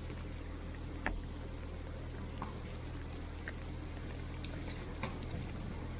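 Faint scattered ticks and knocks, most likely ball kicks and footsteps on a five-a-side artificial-turf pitch during play, over a steady low hum.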